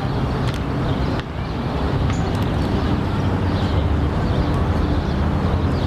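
Outdoor city noise dominated by a steady low engine rumble of traffic, with scattered small clicks; the sound changes abruptly about a second in.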